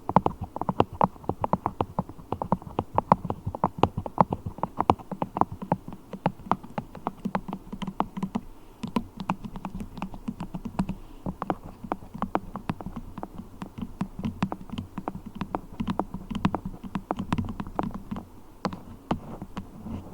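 Fingers working beeswax, making a rapid, irregular run of sticky clicks and taps, several a second.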